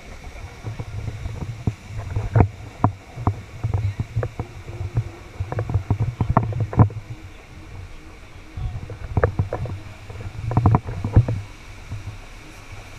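Muffled sound heard through a GoPro's sealed waterproof housing on a river-rapids raft: low rumbling in uneven bursts with many sharp knocks and taps scattered through, heaviest in two spells about a third of the way in and again past the middle.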